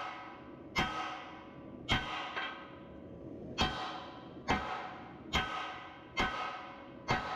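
Hand hammer striking a hot Damascus billet of combine sickle and mild steel on an anvil: about seven blows at roughly one a second, each ringing out with a metallic tone.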